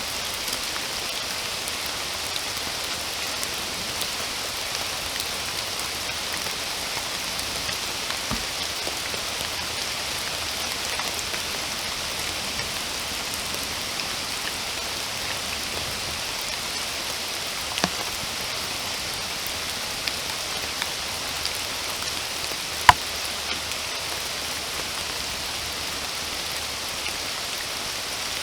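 Steady rain, an even hiss, with scattered single drops tapping close by. One sharp drop stands out about three-quarters of the way through.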